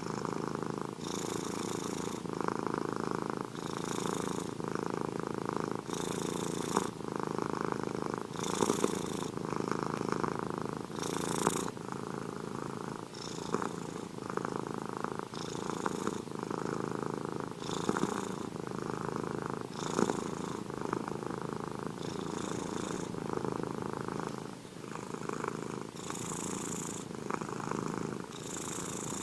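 Domestic cat purring continuously close to the microphone, its purr swelling and fading in a steady rhythm about every two seconds.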